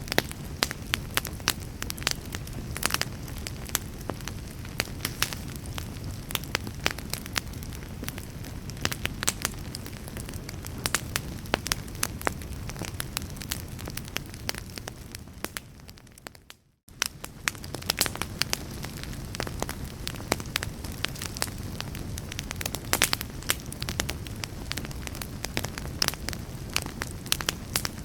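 Wood fire in a fireplace crackling, with frequent sharp pops over a steady low rumble of flames. The sound fades out to near silence for a moment just past halfway, then comes back.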